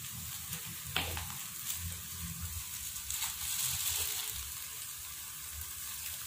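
Fried rice porridge with egg sizzling in a nonstick wok over a gas flame, with the spatula stirring and scraping through it. A sharp tap about a second in.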